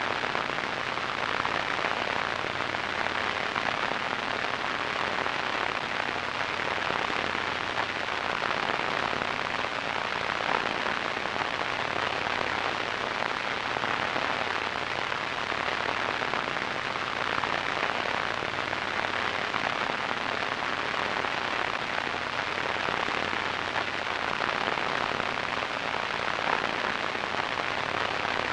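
Radio static: a steady hiss with faint crackling, strongest in the middle and upper range, with no change in level throughout.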